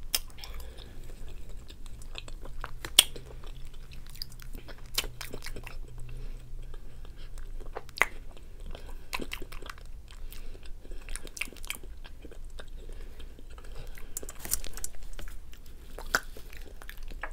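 A person chewing a mouthful of burger close to a clip-on microphone: moist mouth sounds made of many small sharp clicks, a few of them louder.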